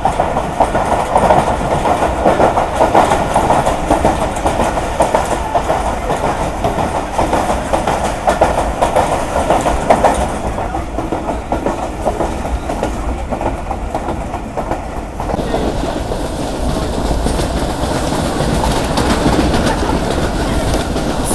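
Passenger train heard from on board while running: wheels clattering steadily over the rails, with the rumble and rattle of the carriage.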